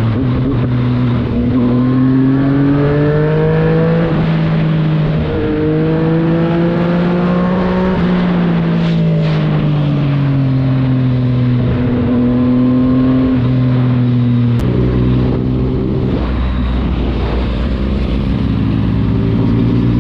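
Motorcycle engine running hard, its pitch climbing in steps over the first eight seconds as it pulls through the gears, then sinking slowly as it eases off. About two-thirds of the way in the note changes suddenly to a different, deeper-rumbling engine sound.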